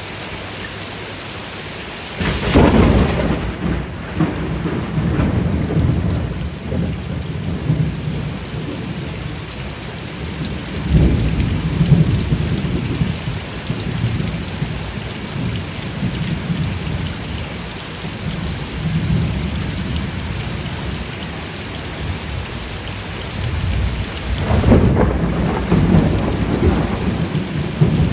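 Steady rain falling, with thunder: a sharp crack about two seconds in that rolls into long low rumbling, another swell of rumble about eleven seconds in, and a second crack near the end.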